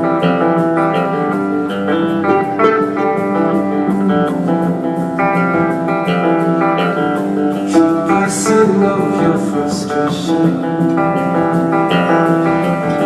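Instrumental music: a plucked string instrument playing a repeating figure over sustained held notes.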